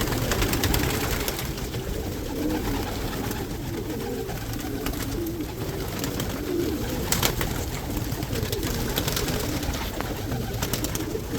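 Many pigeons cooing together in a loft, their low warbling calls overlapping throughout, with scattered sharp clicks.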